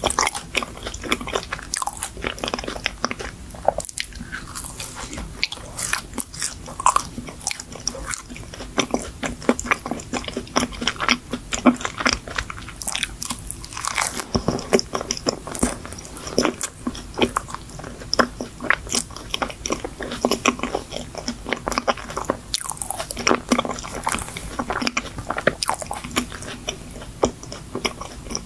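Close-up chewing and biting of a Hershey chocolate crème choux (chocolate cream puff), a steady run of small crunchy clicks as the chocolate-coated pastry is eaten.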